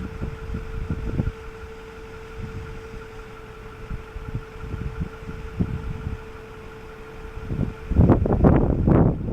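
A machine running with a steady whine over a low rumble. The whine stops near the end and loud, gusting wind noise on the microphone takes over.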